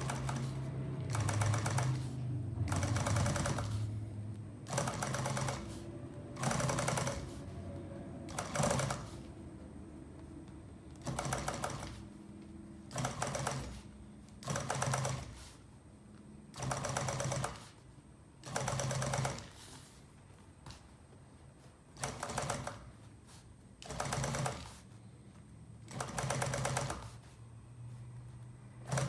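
Upholstery sewing machine stitching welting in short runs of about a second, roughly every two seconds, its motor humming steadily between the runs.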